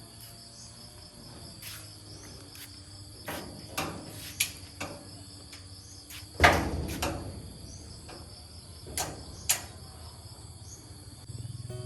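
Crickets chirring steadily, with scattered sharp knocks and clicks over them and one louder thump about six seconds in.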